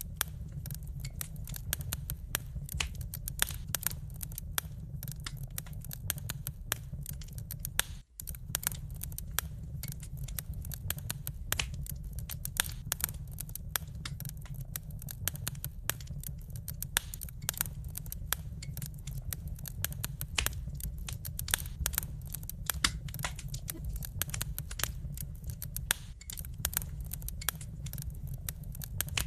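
Wood fire burning in a fireplace: dense, irregular crackles and sharp pops over a steady low rumble of the flames, with a brief gap about eight seconds in.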